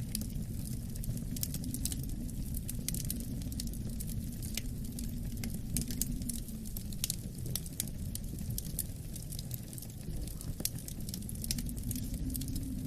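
Wood fire crackling, with frequent short sharp pops and snaps, over a steady low rumble of wind that swells a little near the end.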